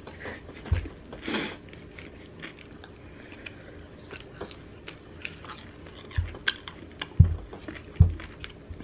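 Close-up chewing and biting of fried food, with many small wet mouth clicks. A few short low thumps come through, four times.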